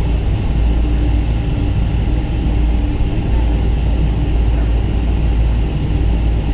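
Steady low rumble inside a Boeing 777-200's passenger cabin near a window seat, with the engines running. A faint hum comes and goes over it.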